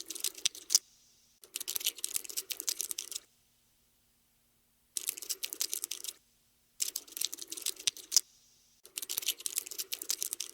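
Cockroach scuttling sound effect: rapid, dry, scratchy clicking in bursts of about one to two seconds, with short silent gaps between them.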